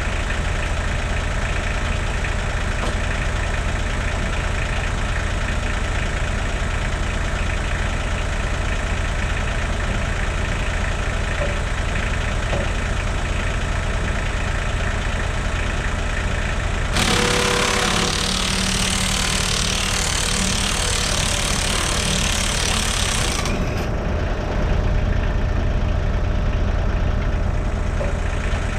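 Diesel engine of a Kubota KX91-2 mini excavator idling steadily. A loud hiss cuts in about two-thirds of the way through and stops after about six seconds.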